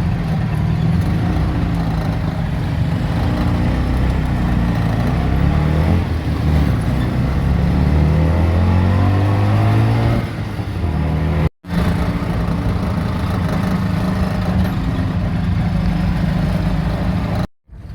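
Tuk-tuk engine running under way, rising in pitch as it accelerates for a few seconds near the middle, then running steadily. The sound cuts out abruptly twice for a moment.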